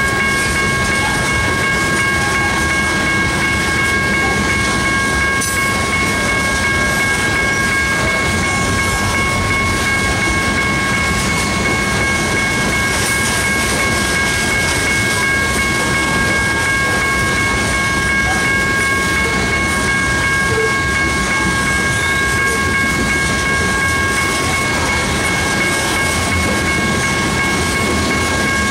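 Coal hopper cars of a freight train rolling past close by: a steady, loud rumble and rattle of steel wheels on the rails. A constant high-pitched whine of three tones sits above the rumble.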